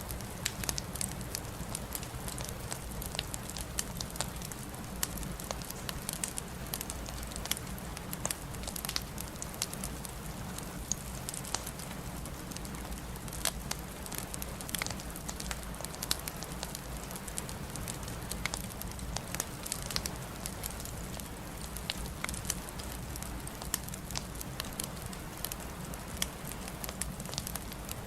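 Wood fire crackling in a fireplace, with frequent irregular sharp pops and snaps over a steady low rumble and hiss of the flames.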